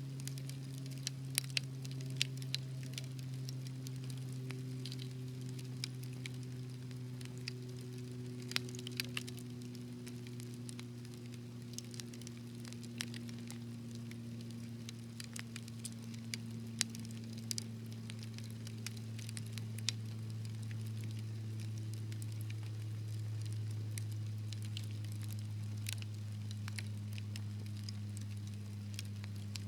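Wood fire crackling: irregular sharp pops and snaps, several a second at times, over a low steady hum that slowly sinks in pitch.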